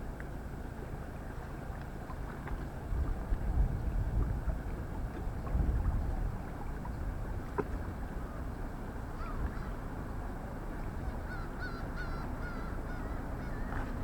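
Wind rumbling on the microphone by a calm sea, swelling a couple of times. Near the end a bird calls a quick series of short warbling notes.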